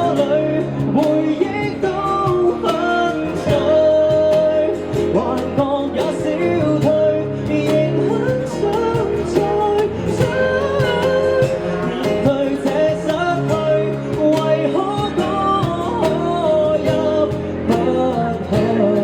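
Amplified live performance of a Cantopop ballad: a man singing over guitar accompaniment.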